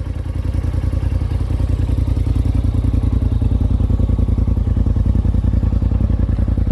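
Polaris RZR Turbo's turbocharged twin-cylinder engine running steadily through a full Trinity aftermarket exhaust, with a deep, evenly pulsing exhaust note.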